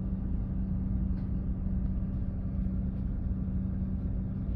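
1994 Mazda RX-7's 13B-REW twin-rotor rotary engine idling steadily, still cold a minute or so after a cold start: an even low rumble with a constant hum.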